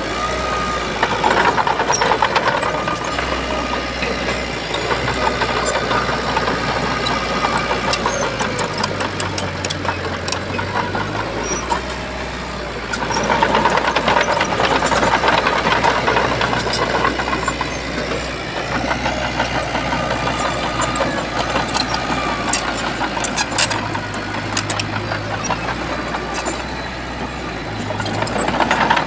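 Diesel engine of a Shantui crawler bulldozer running under heavy work, swelling in loudness as it takes load about a second in, again through the middle, and near the end, with scattered clanks over it.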